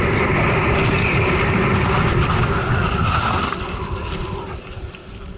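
Mountain bike ridden fast down a rough enduro trail: a loud, constant rolling and rattling noise that quietens about three and a half seconds in.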